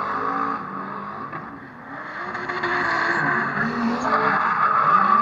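Drift car's engine revving hard up and down over continuous tyre noise; the revs drop about a second and a half in, then climb again, loudest near the end.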